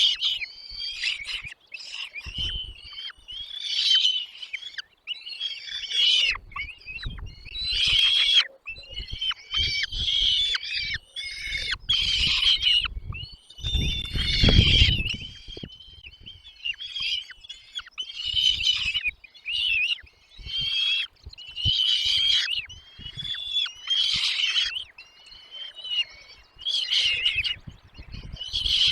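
Nestling birds calling: high, shrill chirps in repeated bursts every second or two, typical of chicks begging for food. About halfway through there is a low rumbling thump.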